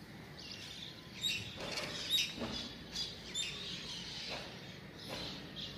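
Small birds chirping: several short, high chirps over a steady faint background.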